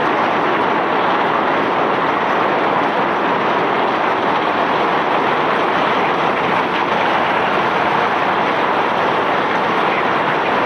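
Steady, loud, even roar of a self-unloading barge discharging bulk cargo, its unloading machinery and the pouring ore and rock blending into one unbroken noise with no separate knocks.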